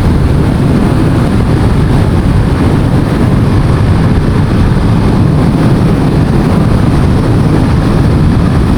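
Motorcycle on the move: steady, loud wind rush over the rider's microphone with the engine and road noise running underneath at an even speed.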